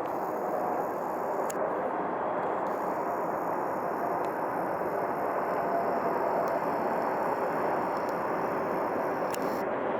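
Jet airliner flying overhead: a steady, even roar of engine noise.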